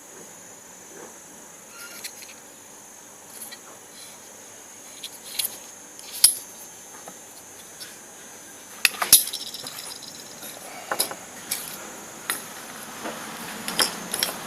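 Scattered clicks and clinks of small metal parts being handled, loudest about six and nine seconds in, over a faint steady hiss.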